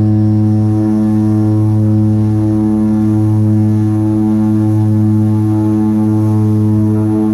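Propeller aircraft's engines running steadily at takeoff power, a loud low drone with a slow wavering beat.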